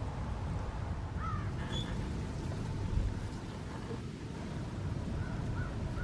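Distant bird calls: two short calls about a second in, then a run of faint short calls near the end, over a steady low rumble.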